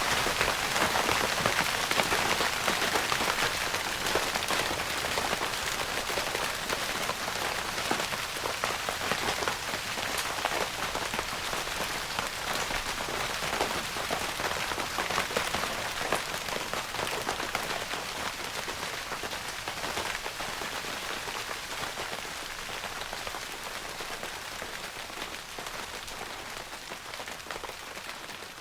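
Rain pattering on a tent's fabric roof, a dense, even patter of countless drops, gradually growing quieter.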